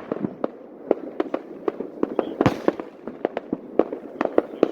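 Fireworks display: a rapid, irregular string of sharp bangs and pops, with one louder burst about two and a half seconds in.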